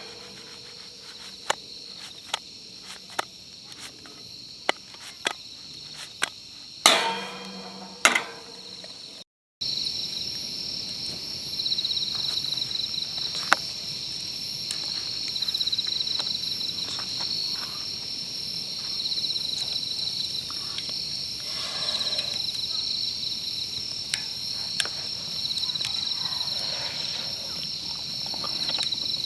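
Sharp clicks and knocks, two of them louder and ringing, about seven and eight seconds in. Then, after a cut, insects chirping steadily in a high pulsing chorus.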